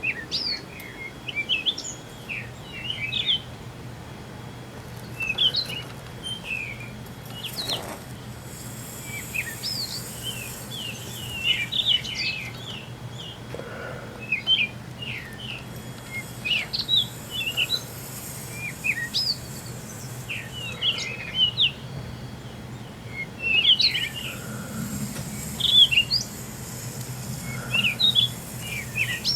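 Small birds chirping and twittering in many short, quick calls throughout, over a steady low hum.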